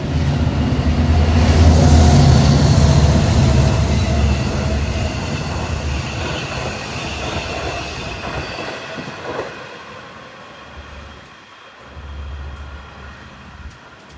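Long Island Rail Road train passing on the near track: a loud rumble of the train on the rails, with thin high squealing tones from the wheels, that peaks about two seconds in and fades away over the next several seconds.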